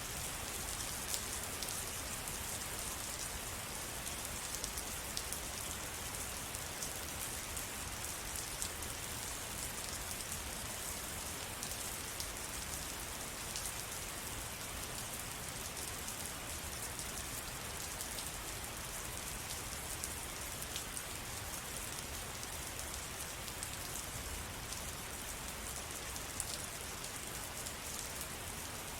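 Steady rain falling, a continuous hiss with many individual drops pattering sharply on a surface.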